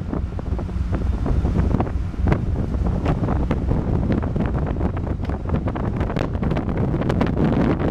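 Wind buffeting the microphone aboard a ship under way at sea, crackling over a steady low rumble.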